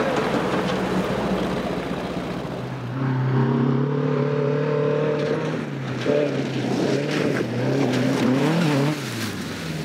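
Rally car engine under hard throttle. After a few seconds of rushing noise, the engine note holds steady, then rises and falls several times as the driver works through the gears and lifts.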